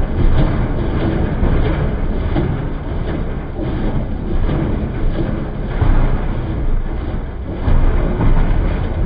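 Gasoline-powered wood chipper running and chipping branches, a loud steady engine-and-cutting noise that swells unevenly as material feeds through.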